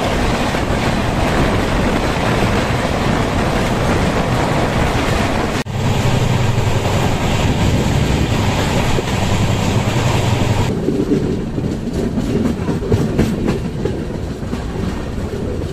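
Passenger train running on the track, heard from an open coach door: a steady rumble of wheels on rails with a rush of wind. There is an abrupt cut about five and a half seconds in. After a second cut near eleven seconds the sound is duller, with a run of clicks from the wheels over the track.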